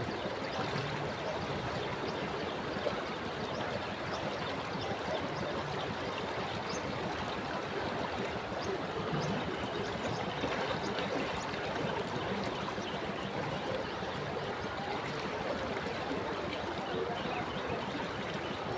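Ganges River water flowing in a steady rush, with faint small ticks of splashing throughout.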